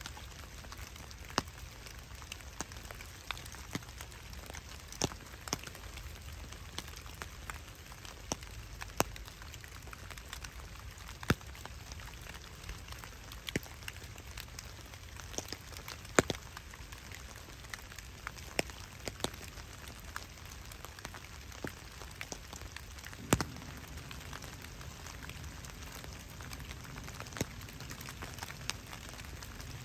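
Steady rain falling on wet woodland, with scattered sharp ticks of drops striking close by at irregular intervals.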